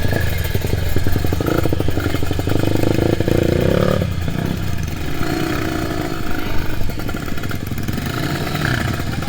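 Kawasaki Ninja 150RR's two-stroke single-cylinder engine running, its note swelling and then dropping off sharply about four seconds in.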